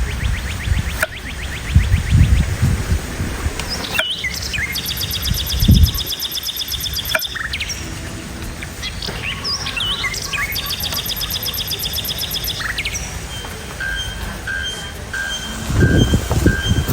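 Birds chirping and trilling in rapid repeated runs, later settling into a steady, evenly spaced call. A few short low thumps come through, about two seconds in, near six seconds, and again near the end.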